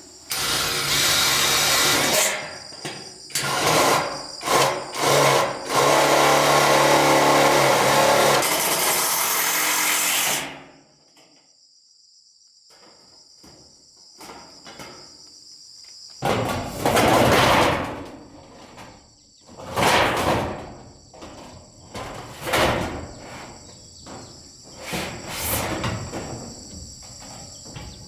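A power tool runs loudly for about ten seconds, then stops. It is followed by several shorter bursts of tool noise, each about a second long. Insects chirp steadily underneath.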